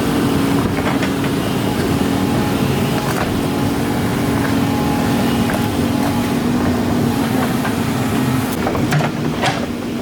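Excavator's diesel engine running steadily, with a few sharp knocks.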